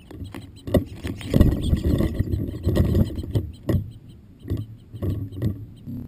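Irregular taps and knocks from a bird feeding at a feeder right next to the microphone, over a low rumble.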